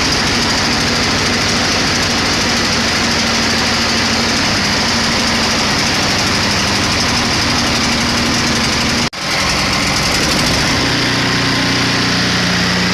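Ariens snowblower's small engine running steadily after starting. About nine seconds in the sound cuts out for an instant, then the engine carries on at a slightly different pitch.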